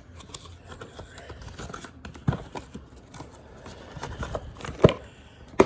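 Plastic wrapping on a new refrigerator water filter cartridge being crinkled and torn while it is handled, with scattered small clicks and two sharper knocks, one about two seconds in and one near the end.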